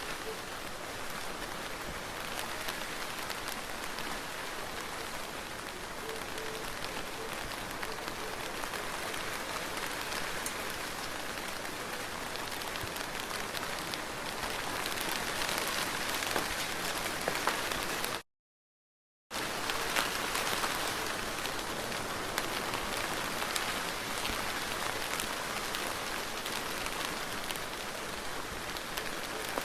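Soft rain falling steadily, a broad even hiss with many individual drops ticking through it. About two-thirds of the way through, the sound cuts out to dead silence for about a second, then resumes as before.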